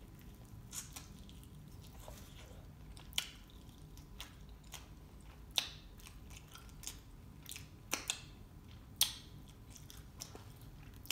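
A person eating a chicken wing close to the microphone: quiet chewing broken by scattered sharp, wet mouth clicks and smacks.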